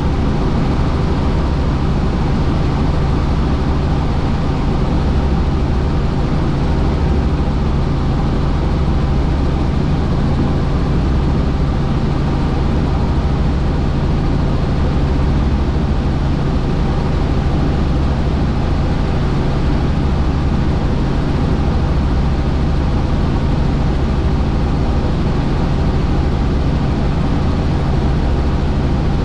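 Helicopter in flight: a steady, loud drone of rotor and engine noise with a constant low hum, unchanging throughout.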